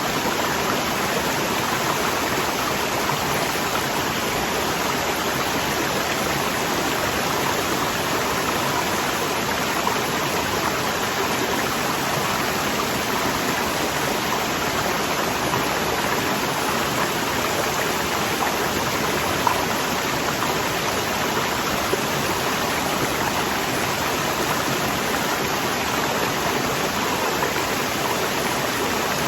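Waterfall: steady rushing water, an even, unbroken hiss.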